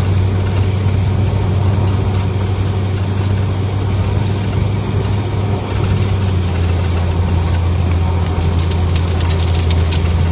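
Vehicle engine running steadily, a low, even hum heard from inside the cab, with a few light ticks near the end.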